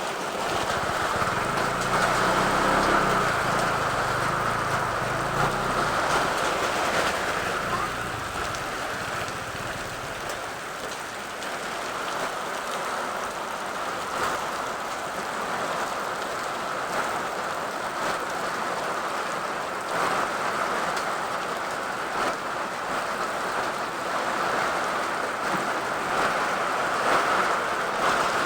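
Heavy rain mixed with hail coming down hard: a steady rush with many small sharp hits of hailstones. A low rumble sits under it for about the first eight seconds.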